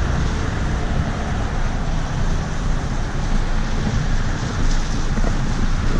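Vehicle engine running under a steady rushing noise, with wind buffeting the microphone.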